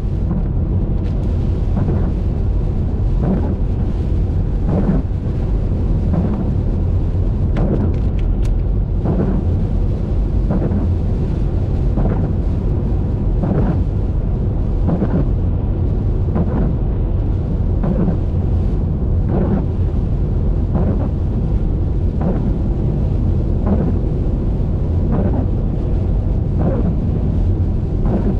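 Car driving on a wet highway: steady, loud low rumble of tyres and wind, with a soft regular pulse a little faster than once a second.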